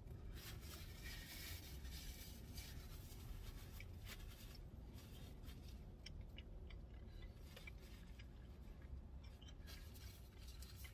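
Faint, irregular crunching of a person chewing a crispy thin pizza crust with the mouth closed, over a low steady hum.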